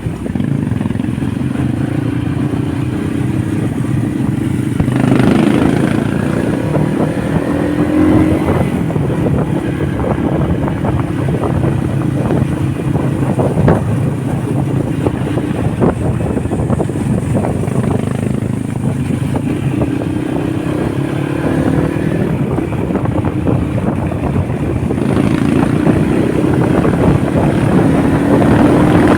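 Honda motorcycle engine running on the road, its pitch rising and falling again and again as the throttle is opened and eased.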